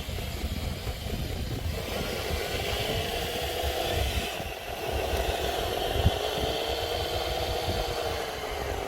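Radio-controlled scale dump truck driving, its motor and gearbox whining up and down in pitch twice as it speeds up and slows, over a low rumble.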